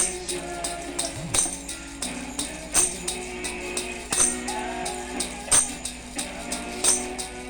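Music with a tambourine: a sharp jingling hit about every second and a half, with lighter taps between, over sustained instrumental tones.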